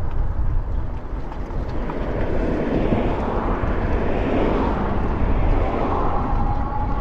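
Wind buffeting the microphone of a moving bicycle, with the noise of a passing engine swelling and fading in the middle and a faint steady whine near the end.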